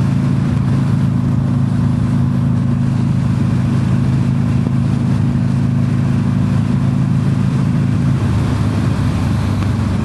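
Motorcycle engine running at a steady cruise, heard from the rider's helmet with wind noise over it. Near the end the engine note eases off.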